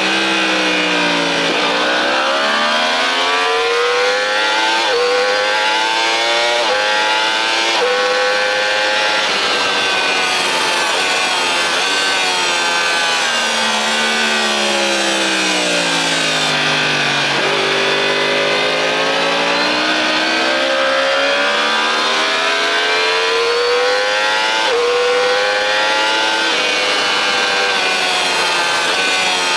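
Sport bike engine at racing pace, heard from on board with wind rush. The engine pulls up through the gears with quick upshifts, falls away in one long slow sweep around the middle as the bike slows, then climbs through the gears again.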